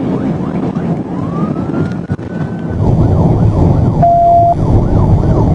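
Police car siren sweeping up once in a slow rise, then switching to a rapid yelp of about three sweeps a second, over loud engine and road noise from a patrol car at high pursuit speed. A short steady beep sounds about four seconds in.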